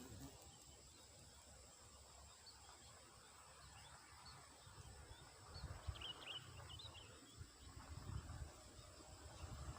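Faint outdoor ambience over a low, uneven rumble, with a few short high bird chirps from about six seconds in and again near the end.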